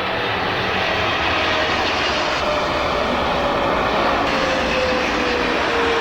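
Jet airliner's engines running loud and steady as the plane passes, with a whine that falls slowly in pitch.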